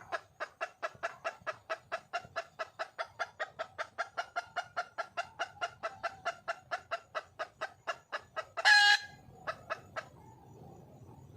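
Junglefowl hen calling for a mate: a fast, even run of clucks, about four to five a second, broken near the end by one loud squawk, then a few more clucks before it stops.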